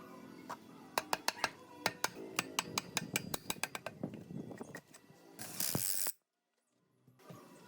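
A quick run of sharp mechanical clicks and taps, then a short hissing burst that cuts off into a second of dead silence.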